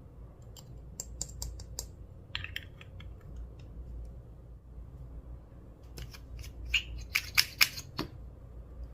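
Clear slime being worked by hand, giving groups of sharp crackling clicks and pops: a short run about a second in and a louder, denser run near the end.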